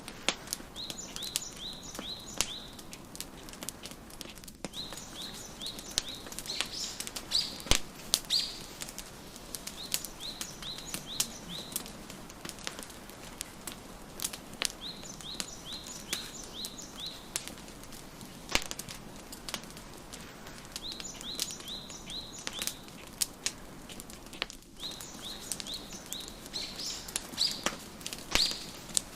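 Wood fire crackling with scattered sharp pops, under a bird singing a short phrase of quick, high chirps that comes back every few seconds.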